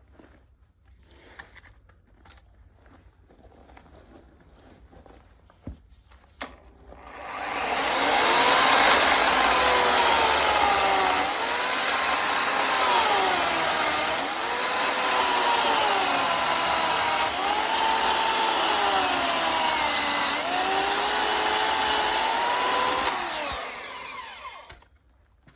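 A power saw cutting firewood: a few small knocks, then about seven seconds in the saw starts and runs loud for some seventeen seconds, its whine sagging and recovering over and over as the blade bites into the wood, before it stops.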